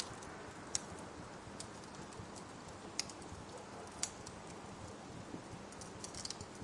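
Wood fire crackling, with scattered sharp pops and a quick cluster of them near the end, over a steady hiss of rain.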